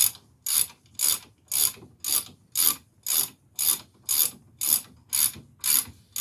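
Hand ratchet wrench clicking in even back-and-forth strokes, about two a second, as a bolt is run in during wheel bearing hub reassembly.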